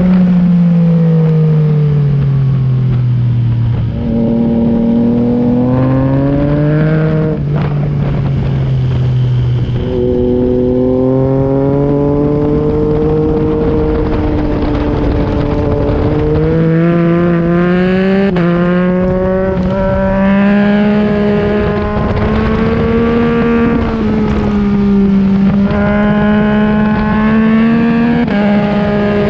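2021 Yamaha MT-09's inline three-cylinder engine through an Akrapovic exhaust, ridden hard on track: revs climb and fall through the corners, with sudden jumps in pitch at the gear changes, over a rush of wind noise.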